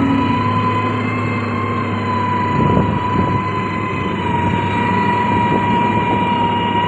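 Diesel engine of heavy road-construction machinery running steadily under load, with a steady high-pitched whine over the engine noise.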